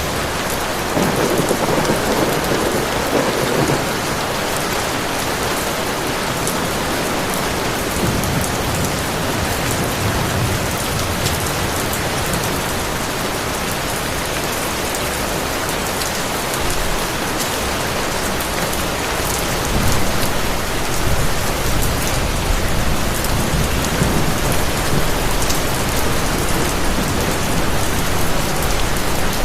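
Heavy rain falling steadily, with low rumbles of distant thunder, one a second or two in and another building from about two-thirds of the way through.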